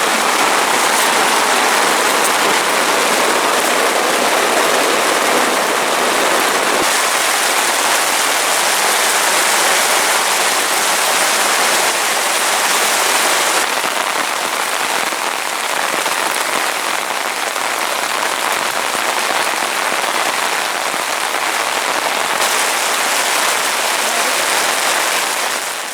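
Steady heavy rain falling, a dense even hiss that shifts slightly in tone three times.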